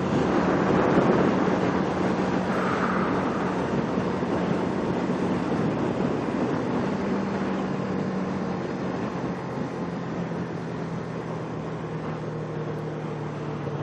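Kawasaki Ninja 650R's parallel-twin engine running at a steady cruise, under wind and road noise rushing over the microphone. The sound eases off a little in the second half.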